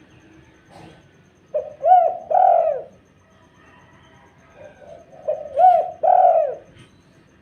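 Spotted dove (tekukur) cooing: two three-note coo phrases about four seconds apart, each a short note followed by two longer arched notes. It is a calling recording played to draw other doves to answer.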